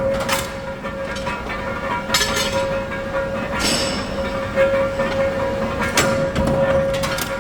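Factory machinery running with a steady hum, with several sharp knocks at irregular intervals.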